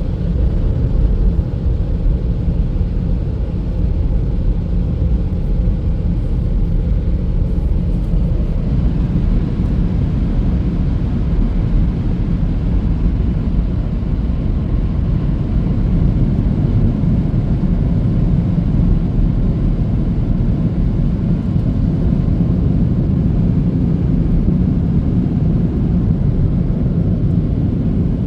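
Automatic car wash machinery running with a steady, loud low rumble.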